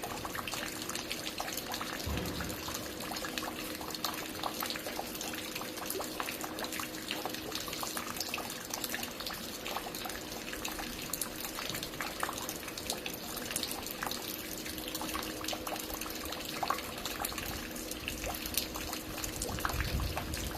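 Water dripping and falling at a construction site: a dense, steady patter of many small drops splashing. Under it runs a faint steady hum, with brief low rumbles about two seconds in and near the end.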